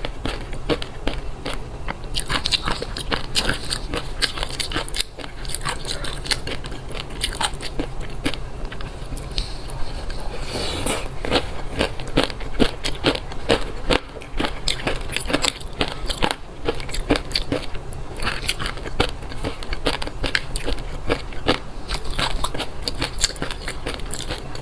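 Close-miked chewing of a mouthful of fish roe, the eggs popping between the teeth in a dense run of small crackling clicks.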